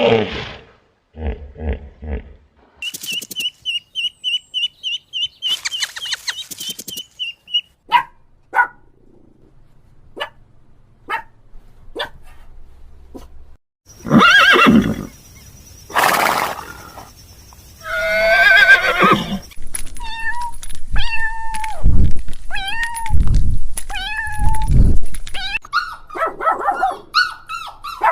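A series of different animal calls, one after another: a fast high trill, scattered short clicks, a long wavering call, then a run of short repeated calls.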